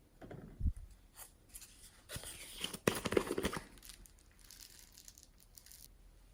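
Slime being worked by hand, giving crackling, tearing and crinkling noises, with a soft thump about half a second in and the loudest run of crackles around three seconds in.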